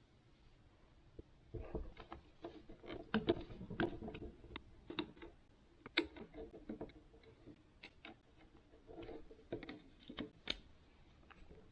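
Irregular small clicks and taps of hands working on a plastic cruise control switch and its small parts as it is taken apart.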